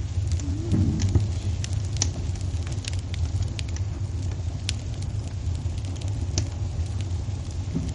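Wood fire in a fireplace crackling, with scattered sharp pops and snaps over a steady low rumble of the burning fire.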